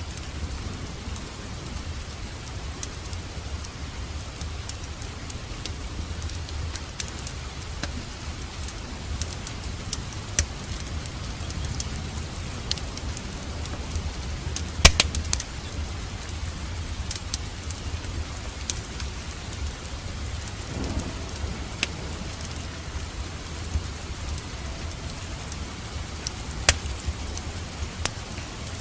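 Steady rain with a low rumble underneath and scattered sharp crackles, the loudest crack about halfway through.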